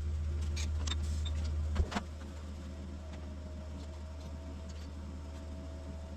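A steady low hum with a few short clicks over it; the hum drops in level about two seconds in.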